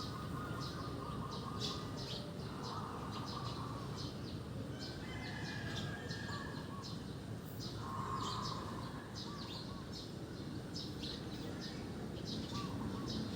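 Birds chirping: many short, high chirps in quick irregular succession, over a steady background hiss.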